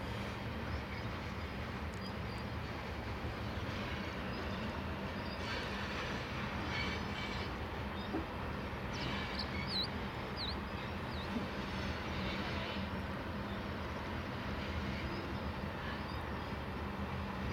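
Freight train of covered grain hopper cars rolling past at low speed, a steady rumble of wheels on rail with a low drone underneath. A few brief high squeaks come about halfway through.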